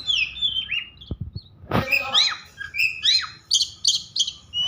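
Oriental magpie-robin (kacer) singing in an agitated, excited state: a rapid run of sharp falling whistles and chirps, broken by a short pause and a single sharp knock just before the middle.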